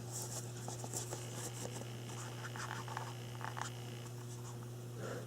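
Faint scratching and rustling handling noise with scattered light clicks from a hand-held camera being carried around, over a steady low hum.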